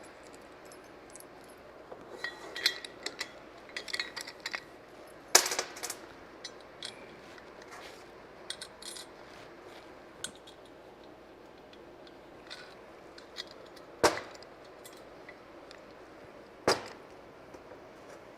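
Steel parts and hardware of an engine stand clinking and rattling as they are handled during assembly, with three sharp metal knocks spread through it.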